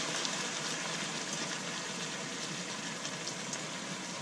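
Chicken pieces sizzling in a hot frying pan as soy sauce is poured over them: a steady hiss with a few faint crackles.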